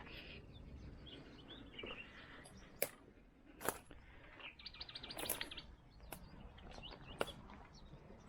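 Small birds chirping faintly, with a quick trill about halfway through. A few sharp clicks or snaps are scattered among the calls.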